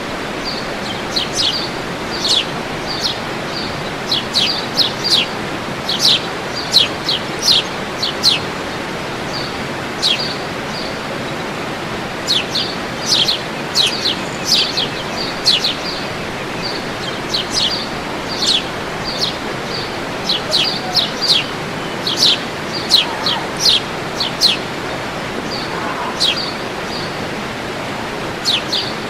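Birds calling in quick runs of short, sharp, high chirps, several notes at a time with pauses between, over a steady rush of falling water from a waterfall.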